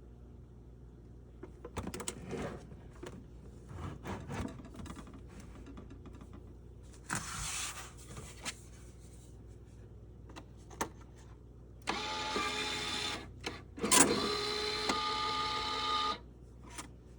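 Lathem 7000E electronic time clock printing a time card. First come rustles and knocks as the card is handled. Late on, the clock's motor runs for about four seconds with one loud clack in the middle.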